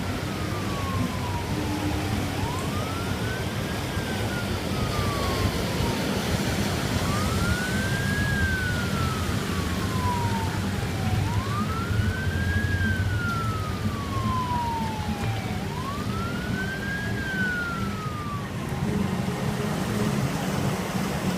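Emergency vehicle siren on a slow wail, each cycle rising quickly and falling slowly, repeating about every four and a half seconds, over a steady low rumble. The wail stops a few seconds before the end.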